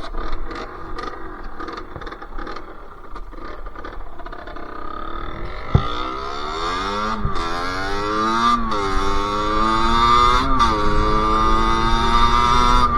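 Sherco SM-R 50's 50cc two-stroke engine under way: a few seconds of low, uneven running, then the revs climb and fall back three times as it shifts up through the gears, settling into a steady cruising note near the end.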